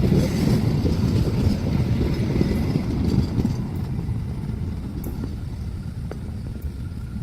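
A train rumbling past on the track with the clatter of its wheels on the rails. The noise fades steadily from about halfway through as it moves away.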